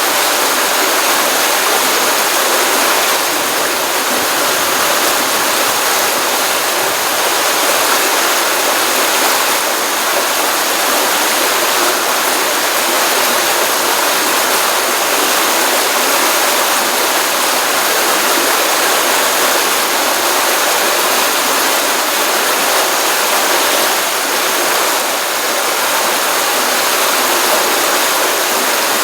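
Pond stream water running steadily, a continuous even rush of flowing water with no breaks.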